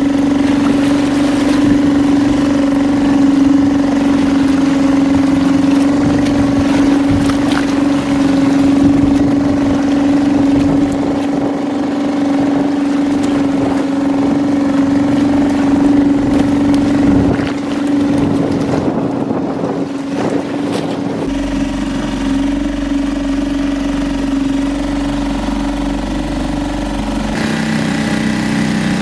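A small boat's motor running at a steady, unchanging speed, its drone holding one pitch throughout.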